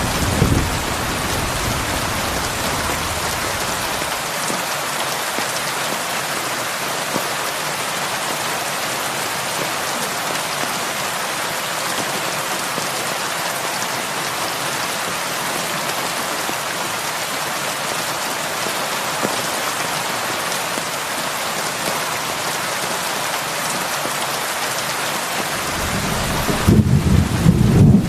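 Steady heavy rain on a roof, an even hiss. A low rumble of thunder rolls in near the end.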